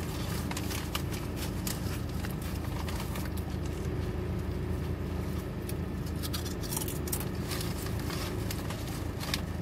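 Close-up chewing of a sandwich on a bread roll, with scattered small clicks of biting and mouth noise, over a steady low hum in a car's cabin.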